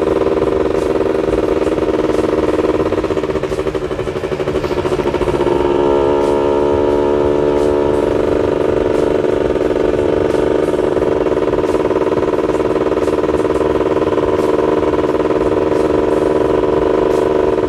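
Yamaha F1ZR's single-cylinder two-stroke engine running under way at a steady cruising speed. The engine note eases off about three seconds in and picks back up a couple of seconds later. The rider feels its carburettor setting is still running slightly rich.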